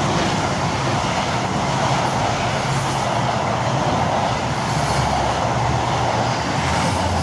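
A Hitachi Intercity Express Train running through the station without stopping, a steady loud rumble of wheels on rail with a low hum that deepens about five seconds in.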